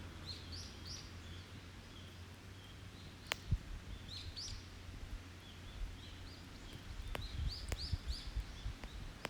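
A wood campfire crackling, with a few sharp pops, while a songbird sings three short phrases of quick rising high notes, near the start, about four seconds in and near the end.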